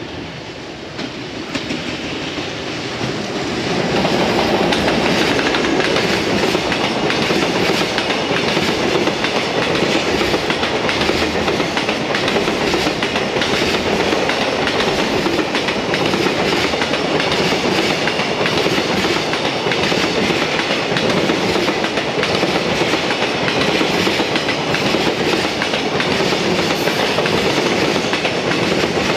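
A JR Freight train hauled by an EF210 electric locomotive passes close by. The noise builds over the first few seconds as the locomotive comes past, then a long string of container flat wagons rolls by with steady wheel clatter over the rail joints.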